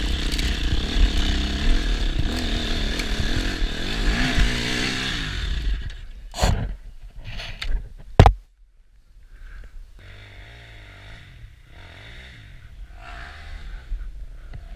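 KTM EXC enduro motorcycle engine running under load and revving up, then cutting out about six seconds in as the bike stalls on a steep slope of cut branches. Two sharp knocks follow, the second and loudest as the bike goes over onto its side.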